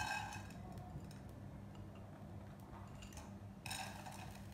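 Urad dal and dried red chillies starting to fry in hot oil in a pan, with faint scattered crackling ticks. There is a light clink of the spoon against the pan at the start and a brief rustle of a plastic bag near the end.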